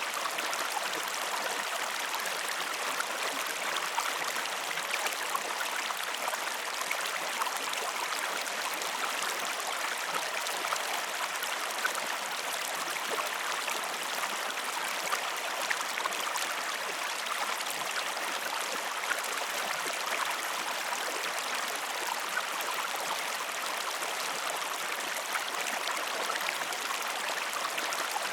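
A stream flowing steadily: an even rush of water with small trickling splashes.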